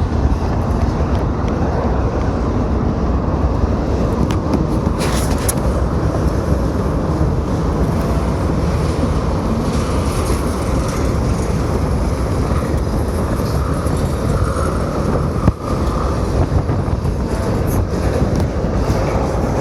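Diesel shunting locomotive working with rail wagons: a steady low rumble of engine and rolling stock, with a couple of brief knocks.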